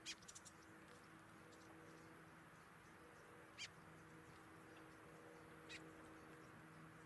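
Faint outdoor ambience with a few brief, high, downward-falling bird chirps: a cluster near the start, one about three and a half seconds in and one near six seconds. A steady low hum runs underneath.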